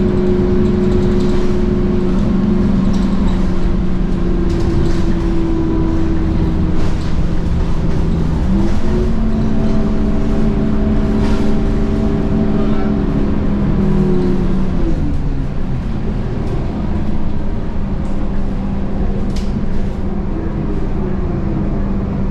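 Scania K230UB bus's 8.9-litre DC9 diesel pulling under load. About eight seconds in, its note jumps up sharply as the ZF Ecomat six-speed automatic kicks down a gear. The engine holds the higher revs for several seconds, then drops back around fifteen seconds in as the gearbox shifts up again.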